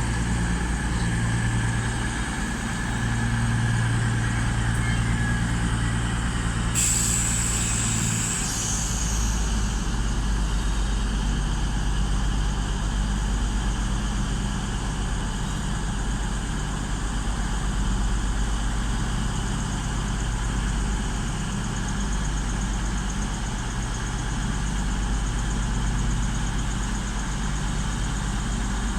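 Class 221 Voyager diesel multiple unit's diesel engines idling steadily at the platform. A sharp hiss of released air about seven seconds in lasts a couple of seconds, after which the engine note shifts slightly.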